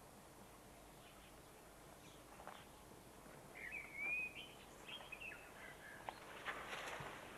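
A bird calling about halfway through, a quick string of short high whistled notes that rise and fall, over faint outdoor hiss. A few scuffing footsteps near the end.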